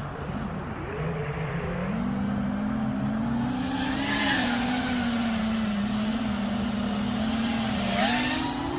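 Five-inch FPV quadcopter's brushless motors and propellers whining at a fairly steady pitch. The pitch swells with throttle punches about four seconds in and again near the end.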